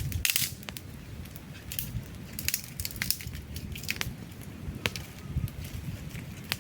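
Campfire logs burning and crackling: irregular sharp pops and snaps over a low rumble of the flames, a cluster of louder pops in the first half-second.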